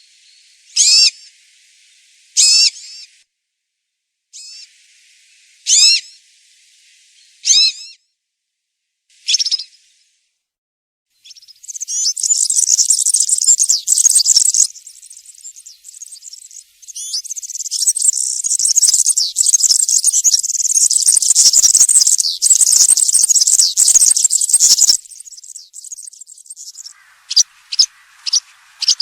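European serin calling and singing. First come short, high chirped calls about every one and a half to two seconds. After a short pause there are two long runs of its very high, fast, buzzy jingling song, the second lasting about eight seconds. Short chirps return near the end.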